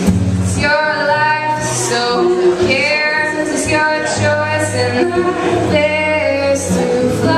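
A woman singing a melodic line over sustained low accompaniment.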